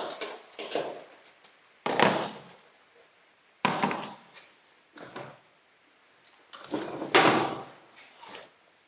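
About half a dozen separate hard knocks and clunks at irregular intervals, each dying away quickly, with the loudest about two seconds in and again near the end.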